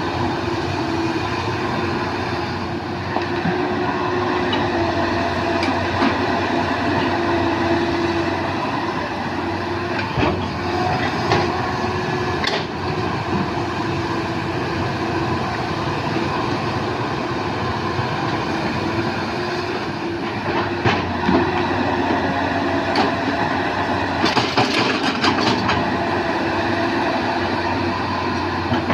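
Hydraulic excavator's diesel engine running steadily, with scattered knocks and clatter, thickest for a couple of seconds near the end.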